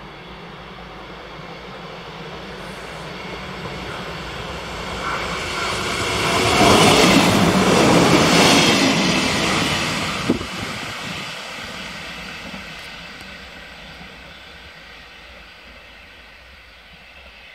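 ÖBB class 5022 Siemens Desiro diesel railcar passing by: its engine and wheels on the rails grow louder as it approaches, are loudest for a few seconds in the middle, with one short sharp knock just after, then fade away as it runs off.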